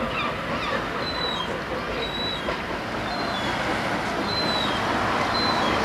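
A heritage railway passenger train pulling out of the station, its coaches running away down the track with a steady rumble that grows slightly louder towards the end. Brief high squeaks come every second or so.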